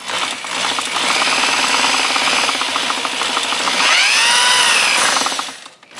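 Honda SL125 engine being spun over by a power drill with the gearbox in fifth. The gears and sprocket give a steady fast ticking clatter. The drill's whine rises and falls about four seconds in, and the sound stops just before the end.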